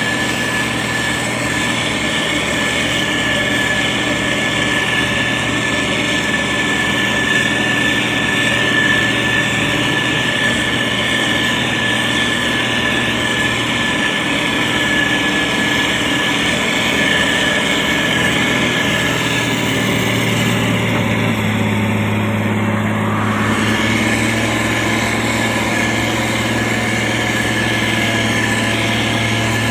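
Diesel engine of a motor grader running steadily, with a low engine note that changes pitch about twenty seconds in.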